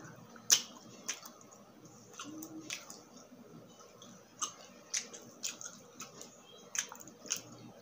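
Close-miked chewing of grilled meat off a bamboo skewer, with wet mouth smacks and clicks coming irregularly, about one every half second, the loudest about half a second in.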